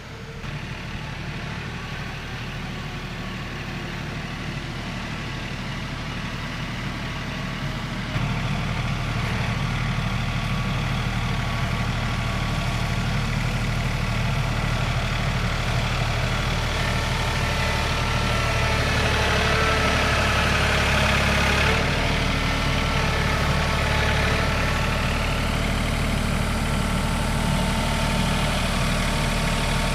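Heavy engine running steadily, stepping up in level about eight seconds in and a little louder again around twenty seconds.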